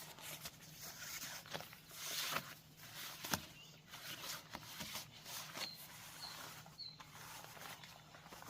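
Footsteps with rustling, scraping and light knocks of camping gear being handled, and three short high chirps in the middle.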